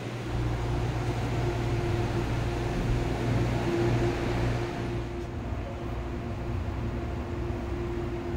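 Steady interior rumble and hum of an MTR Airport Express train car, with a constant drone under a wash of running noise that is a little louder for the first half.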